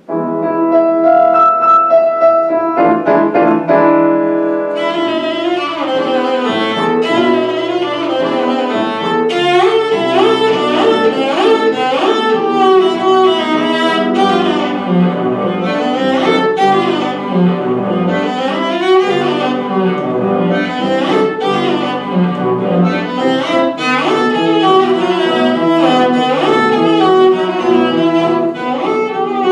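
Live classical music for bowed strings and piano, starting suddenly with held chords and moving into faster, busier playing about five seconds in.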